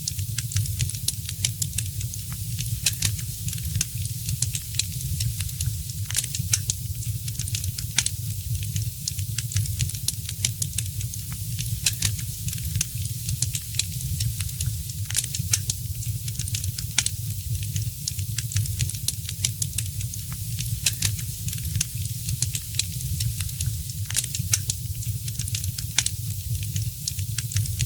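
Wood fire crackling in a fireplace: frequent irregular pops and sharp snaps over a steady hiss and a low rumble.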